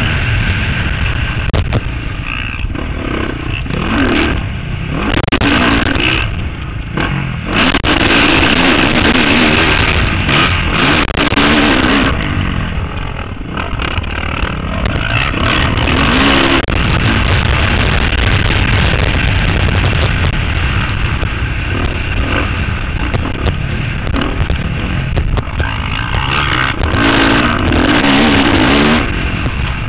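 Motocross bike engine revving up and falling back again and again, heard through a helmet-mounted microphone with heavy wind rush over it.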